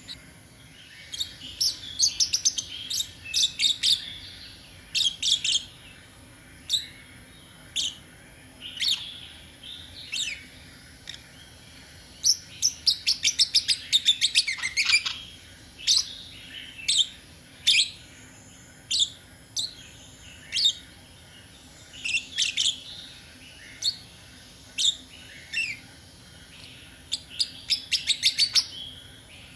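Birds chirping: short, sharp, high chirps at irregular intervals, with bursts of rapid trilling about halfway through and again near the end.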